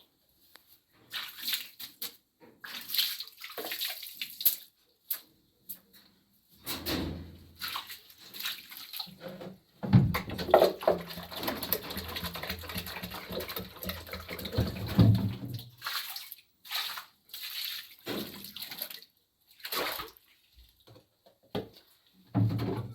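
Water being poured and splashed while someone washes, in irregular bursts, with a longer, fuller stretch of pouring about ten seconds in.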